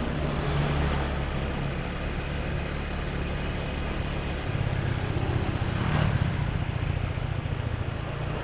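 Motorbike engine running while riding along a busy street, a steady low hum with road and traffic noise; about halfway through the engine note turns more pulsing.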